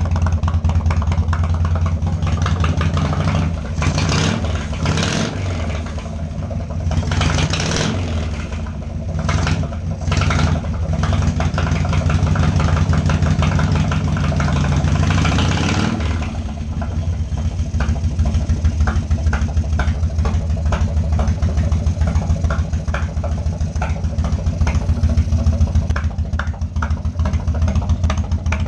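1995 Harley-Davidson Wide Glide's 1340 cc Evolution V-twin running on its first runs after nine years of sitting. The throttle is blipped several times, then held up for a few seconds before dropping back to a steady idle about halfway through.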